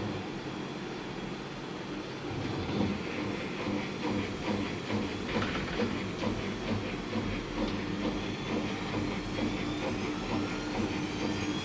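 Washing machine running: a steady mechanical hum with scattered rattling clicks, and a motor whine rising in pitch near the end.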